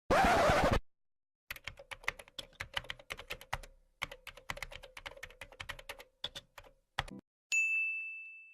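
A short, loud burst of noise, then about five seconds of rapid, irregular typing clicks like keys on a keyboard, two more clicks, and a single bell-like ding that rings out near the end.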